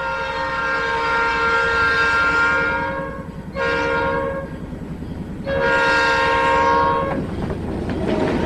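Diesel locomotive's air horn sounding a chord of several notes: a long blast, a short one, then another long one, the closing part of the grade-crossing horn signal. A low rumble of the passing train runs beneath and grows louder near the end.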